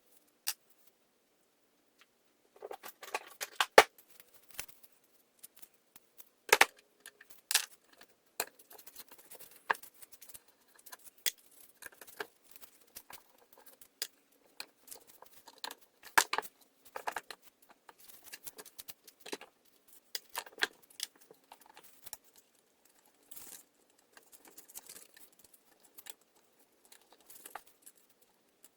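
Irregular clicks, taps and small rattles of hand tools and small parts being handled, as in taking apart a chainsaw's carburetor; the engine is not running.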